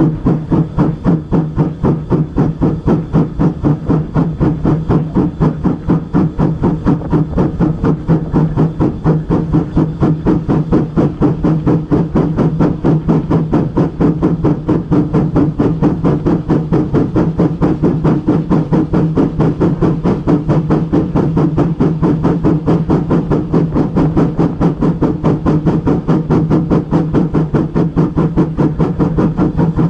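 Railway locomotive running with a steady, even beat of about four pulses a second over a constant low hum.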